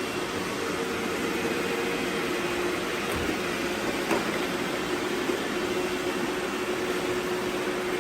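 Robot vacuum running: a steady hum from its suction motor and brushes as it cleans up confetti, with a light tick about four seconds in.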